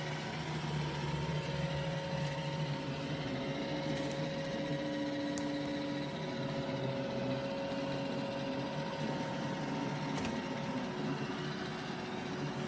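iRobot Roomba Combo i5 robot vacuum running: a steady mechanical whir with a constant hum of several steady tones.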